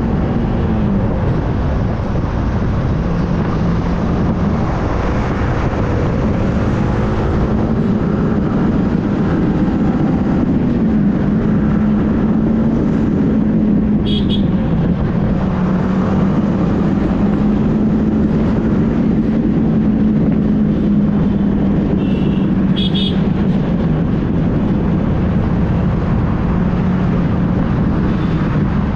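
Motorcycle engine running steadily at highway cruising speed, its pitch drifting a little as the throttle changes, under heavy wind rush on the microphone. Short high-pitched beeps come about halfway through and again a few seconds later.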